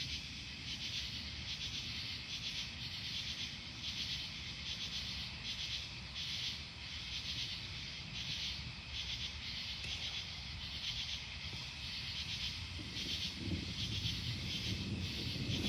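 Night insects chirping in an even, pulsing rhythm, a little over once a second, over a low rumble that grows louder near the end as distant thunder builds.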